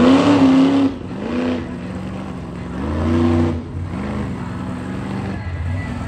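Monster truck engine revving hard in repeated swells, the pitch climbing and falling back each time, loudest at the start and again about halfway through.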